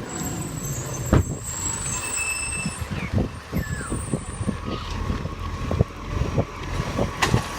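Garbage truck's diesel engine running close by, with a hiss of air in the first few seconds and a string of sharp knocks in the second half.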